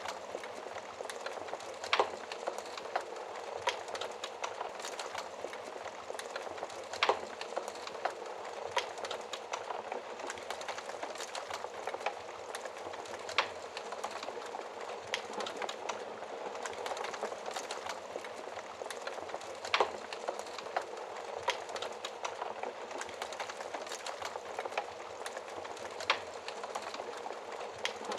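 Fire in a fireplace crackling steadily: a constant soft hiss with many small crackles and a louder pop about every five to six seconds.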